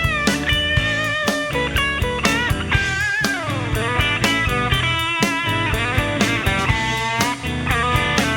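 Electric blues recording: a lead electric guitar plays bent notes, a long sliding fall about three seconds in, and notes held with vibrato, over a steady drum beat and bass.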